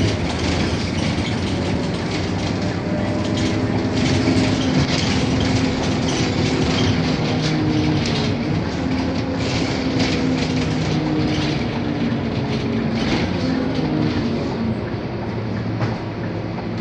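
Scania K230UB city bus running under way: the diesel engine and drivetrain drone with several tones that hold and then slowly rise and fall as the bus changes speed, over steady rattling and clicking from the body.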